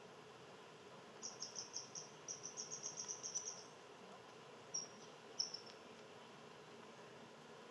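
High, rapid chirping from a small wild animal: a run of pulses, about five or six a second for a couple of seconds, then two short chirps a little later.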